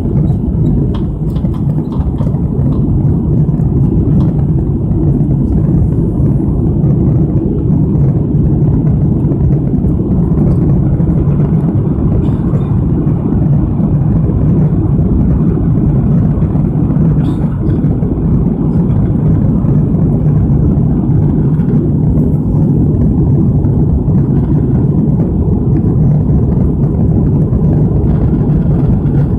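Steady, loud drone of a Lockheed TriStar jet airliner's engines and rushing air, heard from inside the passenger cabin in flight.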